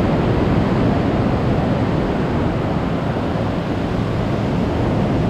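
Choppy sea washing around inside a sea cave, a steady dense rush with a strong low rumble, mixed with wind buffeting the microphone.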